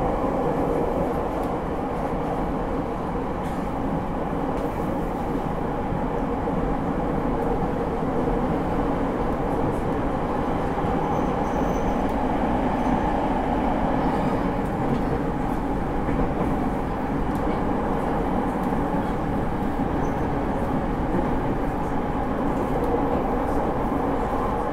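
Steady running noise inside a JR East E231 series 1000 commuter train car at speed: a continuous rumble of the wheels and running gear on the rails, with no marked rise or fall.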